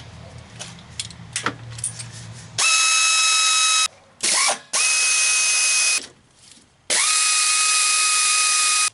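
A few light clicks, then a cordless power tool runs three times with a steady high whine, each run rising quickly in pitch as it starts, spinning out the remaining exhaust manifold fasteners.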